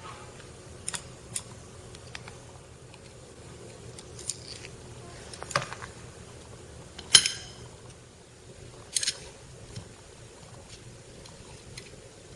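Small metal parts and hand tools clicking and clinking at irregular moments as the thread trimmer motor assembly is worked on, with one louder ringing clink about seven seconds in.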